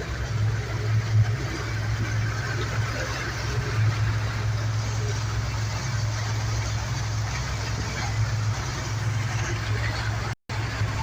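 An engine running steadily with a low, even drone, cutting out for a split second near the end.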